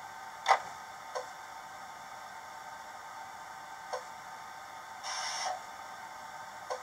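Sound decoder in a model Mk3 Driving Van Trailer playing the coach's standing sounds through its small speaker: steady air-conditioning hiss with the DVT's distinctive irregular ticking, four ticks in all, the first the loudest. A short hiss about five seconds in.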